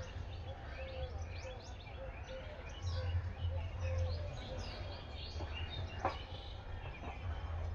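Small birds chirping, many short quick chirps overlapping, over a steady low rumble; a single sharp click about six seconds in.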